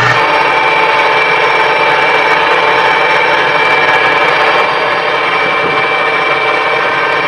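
A machine running steadily: a continuous loud mechanical noise with a steady high whine over it.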